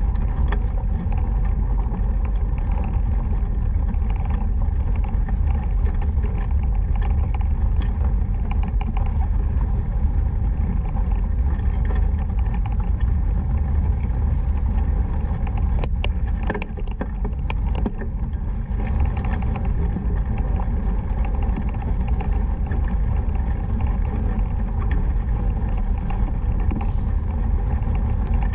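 Steady low rumble of wind and tyre noise from a fat bike rolling along a dirt trail, with a few sharp clicks about halfway through.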